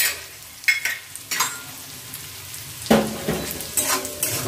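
Chopped carrots, long beans and nuts sizzling in hot oil and ghee in a metal kadai, with a metal spatula scraping and clinking against the pan several times. The loudest stroke comes about three seconds in.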